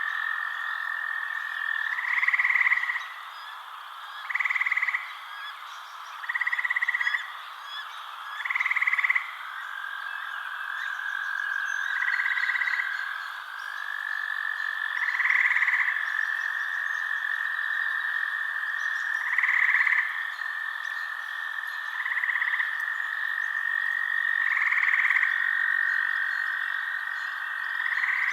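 Frogs calling at night: a steady high trill underneath, with louder pulsed calls about every two to four seconds.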